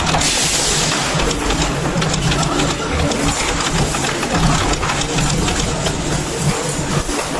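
Workshop machinery running steadily, a continuous mechanical hum with noise over it.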